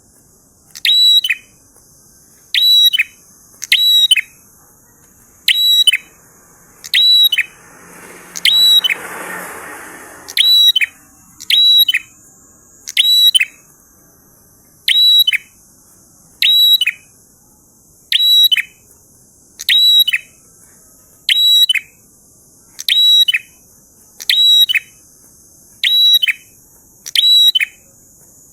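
Prinia (prenjak) singing one short, loud, high phrase over and over, about every second and a half. A brief rushing noise swells and fades about a third of the way in, and a faint high hiss runs underneath.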